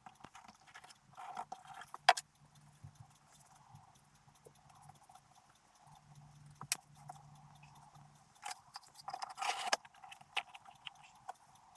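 Scattered light clicks and knocks of small wooden box parts being handled and fitted together for a glue-up. There is a sharp click about two seconds in, another about seven seconds in, and a brief scraping rustle near the end.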